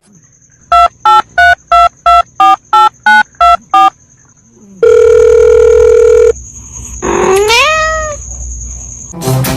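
A phone keypad dialling: ten short touch-tone beeps, about three a second. Then a steady phone-line tone for about a second and a half, and a single cat meow that rises and then falls in pitch, with a thin high whine underneath.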